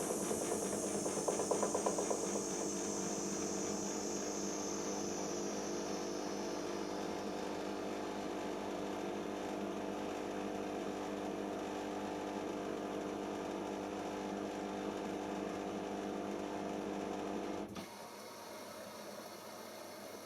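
Siemens iQ WIQ1430 front-loading washing machine at the end of its pre-wash spin phase: a steady mechanical hum with a high whine that falls in pitch over the first several seconds. About eighteen seconds in the hum stops abruptly, leaving a quieter steady hiss as the main wash begins, typical of water filling the drum.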